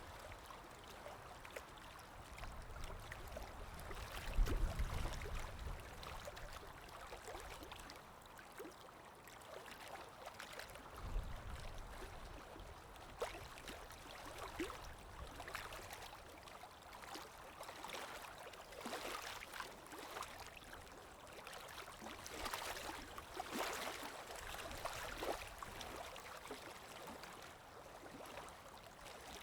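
Underwater ambience: muffled moving water with scattered short clicks and pops, and a low rumbling swell about four seconds in and again around eleven seconds.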